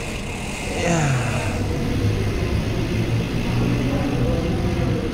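Silverback Stride Expert mountain bike rolling down a tiled ramp: steady tyre and wind noise with a low hum, and a tone that falls in pitch about a second in.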